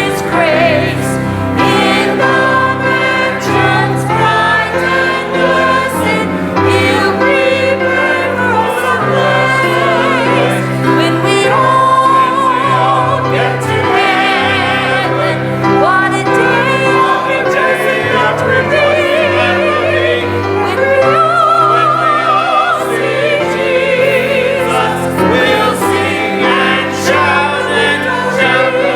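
Voices singing a hymn with vibrato over instrumental accompaniment with held bass notes.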